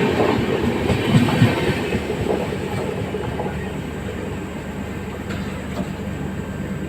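Passenger express train rolling slowly past, its wheels clattering over the rail joints, with a couple of louder knocks about a second in. The sound then gradually gets quieter.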